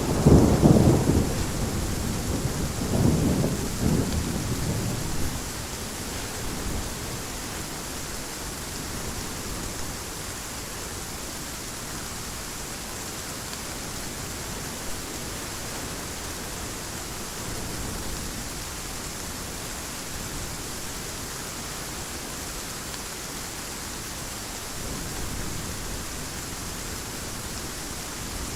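Heavy rain falling steadily, with rolls of thunder rumbling loudly in the first few seconds and then dying away, leaving the rain alone.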